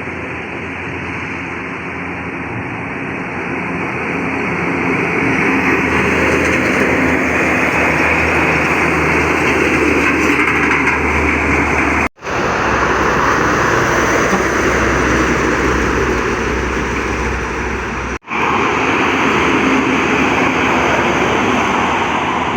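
Heavy road traffic: trucks running past at highway speed, a steady rush of engines and tyres that swells as a truck comes close. The sound cuts out briefly twice.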